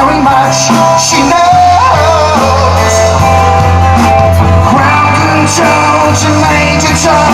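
Live band playing a rock-and-roll number, with a melody line over a steady bass.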